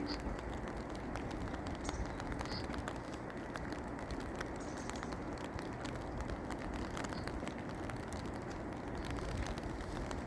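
Steady rain, with many individual drops pattering and ticking throughout.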